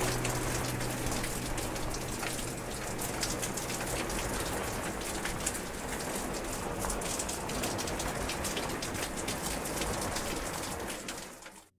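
Steady rain falling, with many small drops ticking over a continuous hiss. It fades away to near silence just before the end.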